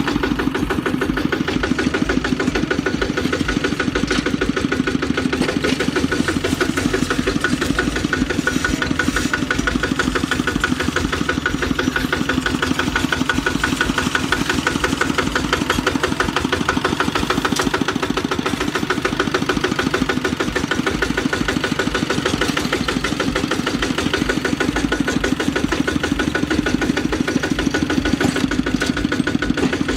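Kubota RT walking tractor's single-cylinder diesel engine running steadily with an even, rapid beat.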